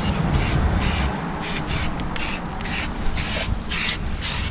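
Aerosol spray-paint can spraying in short hissing bursts, about two a second, as paint is laid on in quick passes.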